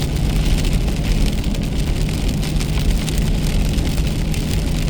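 Rain on a car heard from inside: a steady low rumble of the running car under an even hiss of rain, with many small drop ticks on the body and glass.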